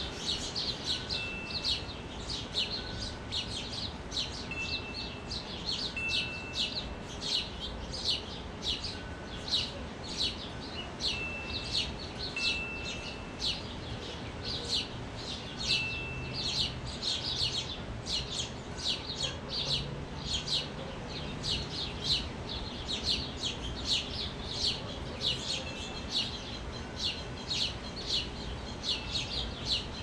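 Small birds chirping over and over, several short chirps a second, with a wind chime ringing a held note now and then, mostly in the first half and again near the end.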